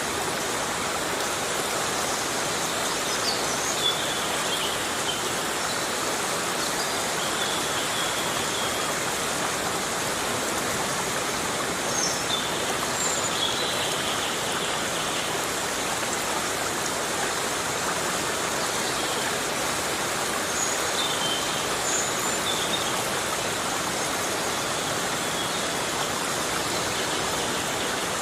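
Heavy rain falling steadily in a tropical forest, an even hiss of water, with a few faint high chirps now and then.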